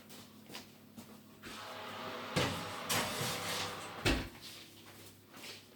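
Oven door opening and a dish of chicken going in: a few clunks over a steady hiss, then the door shut with a heavy thump about four seconds in.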